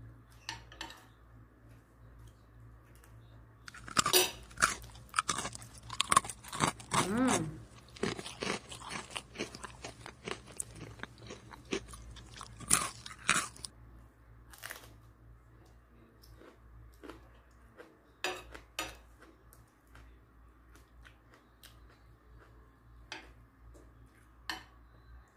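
Close-up chewing and crunching of crisp food, dense and loud for about ten seconds from around four seconds in, then only a few scattered crunches and clicks.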